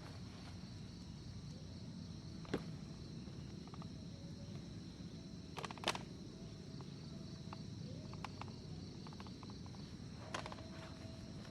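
Steady chorus of forest insects, a high continuous chirring, with a few sharp clicks or knocks over it, the loudest about six seconds in.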